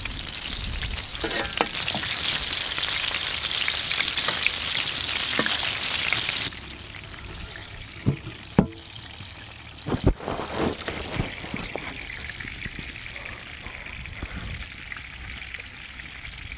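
Chicken frying in hot oil: a loud, steady sizzle that cuts off abruptly about six seconds in. What follows is quieter, with a few scattered knocks.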